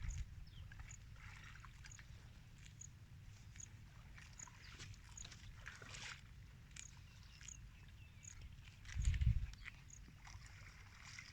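Buffalo eating: scattered short crunches and clicks over a steady low rumble, with a louder low burst about nine seconds in.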